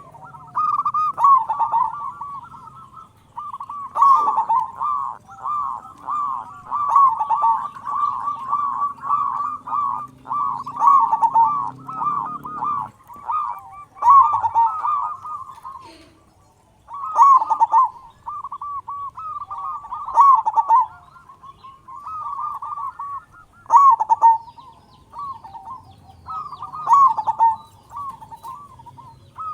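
Zebra dove (perkutut) cooing over and over in short rolling phrases of staccato notes, each about a second long, with a brief break just past the middle.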